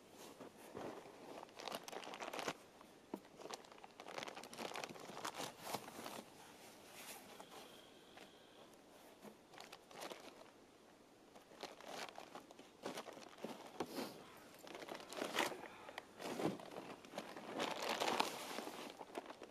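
A snow shovel cutting into and scraping through snow, in irregular strokes every second or two.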